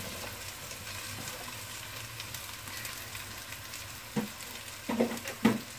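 Boiled potato pieces tipped into a pan of frying masala paste, which then sizzles steadily and softly. A few brief, sharper sounds stand out near the end.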